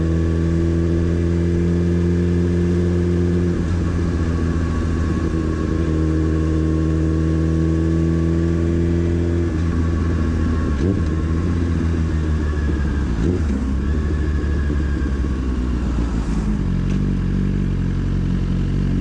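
Motorcycle engine running, its pitch changing and breaking up about 4 and 10 seconds in, then settling to a lower, steady note near the end.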